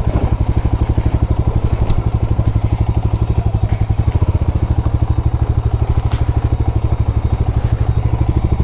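Motorcycle engine running at low revs with a steady, even beat of about ten pulses a second, and a few light clicks over it.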